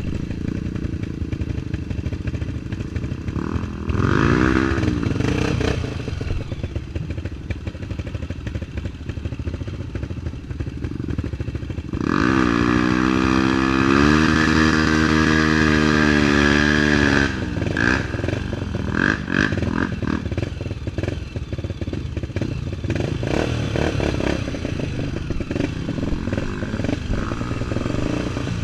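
Off-road trail motorcycle engine running under way, with a short burst of revs about four seconds in and a longer, louder rev about halfway through that climbs and then drops back.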